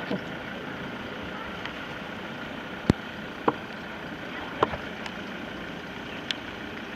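Steady hiss of heavy rain, with a few sharp ticks scattered through it.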